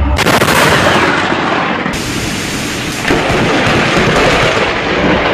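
Thunderstorm: a sudden close crack of thunder from a nearby lightning strike, then heavy rain and rumbling thunder, getting louder about three seconds in.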